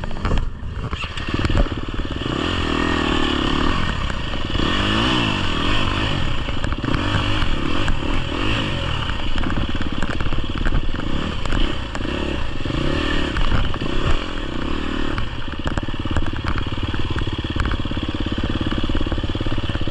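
GasGas EX250F enduro dirt bike engine being ridden, its pitch rising and falling over and over as the throttle is opened and closed, with wind rush and clatter from the bike over rough ground.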